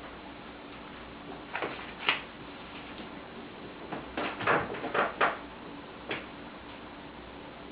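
Downy woodpecker pecking at a block of suet: a few irregular sharp taps, then a quick run of several about four to five seconds in, and one more after.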